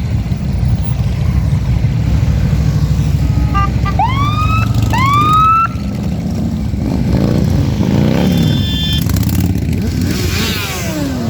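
Motorcycle engines running and revving as a parade rides past, with two rising police-siren whoops about four seconds in and a short horn blast a few seconds later.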